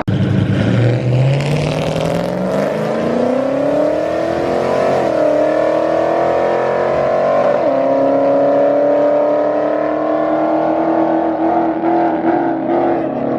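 Car engine revving up and held at high revs, its pitch climbing over the first few seconds, then holding with two quick dips and recoveries partway through.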